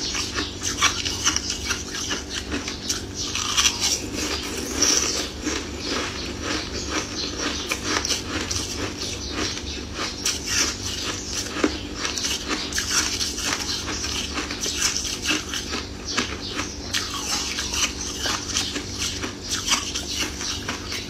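Close-up chewing and crunching of a hard, clear, ring-shaped sweet, a dense run of irregular crunches and wet mouth clicks over a steady low hum.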